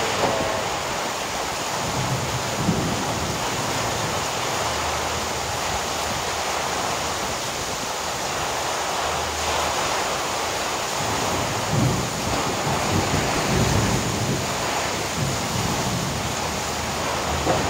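Heavy rain pouring down in strong wind: a steady, dense hiss of rain on roofs and the street, with low rumbling swells now and then.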